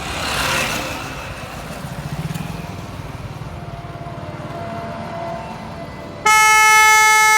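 Steady traffic and road noise from a car driving on a highway, swelling briefly as a vehicle passes near the start. About six seconds in, a loud vehicle horn sounds one steady note for about a second and a half.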